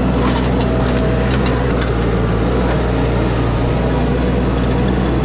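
An engine running steadily at a constant speed, with light clicks and rattles over its hum.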